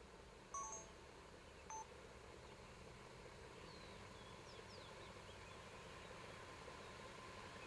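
Quiet outdoor hush with scattered bird calls: a pair of short chirps about half a second in, another just before two seconds, and several thin falling whistles.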